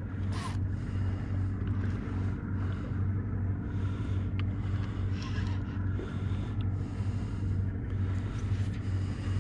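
Boat engine idling, a steady low hum, with a few faint clicks.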